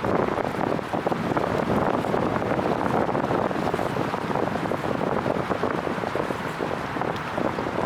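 Wind buffeting the microphone outdoors: a steady, rushing noise that flutters in loudness.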